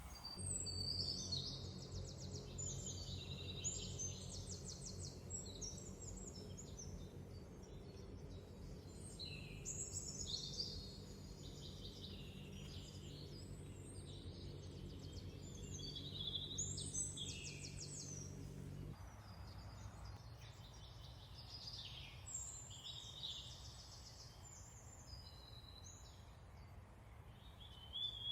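Songbirds singing repeated phrases with quick trills. A low steady hum runs underneath and cuts off abruptly about two-thirds of the way through.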